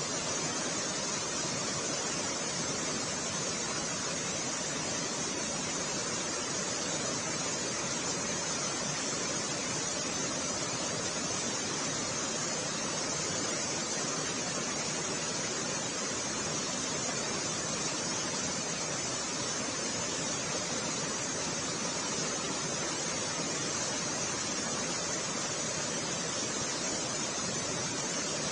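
Fast-flowing floodwater rushing: a steady, unbroken noise of moving water that holds an even level throughout.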